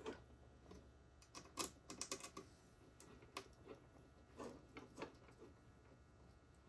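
Faint, scattered clicks and taps of small plastic and metal parts being handled and fitted by hand, with a quick run of clicks about two seconds in.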